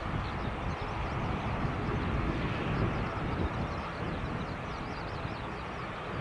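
Pratt & Whitney PW127M turboprop engines of an ATR42-600 running steadily at low power on the ground before takeoff, a continuous rumble with a hiss.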